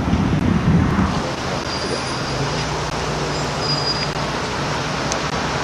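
Car driving, a steady run of engine and road noise with a low hum. Wind buffets the microphone for about the first second.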